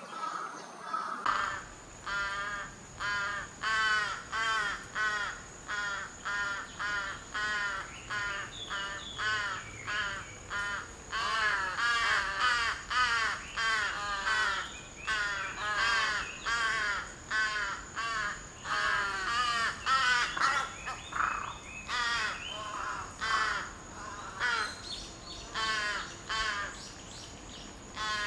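Bird giving harsh, caw-like calls over and over, about two to three a second in long runs, starting about a second in.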